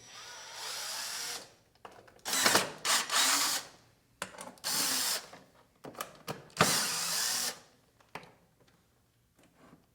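Power drill driving screws back into a door threshold's adjustable rail, into freshly set threaded inserts, in about four short runs with clicks between them.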